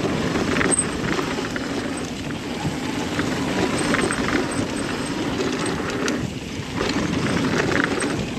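Mountain bike riding down a dirt flow trail: steady tyre and riding noise with scattered short rattles and crunches, easing briefly about six seconds in.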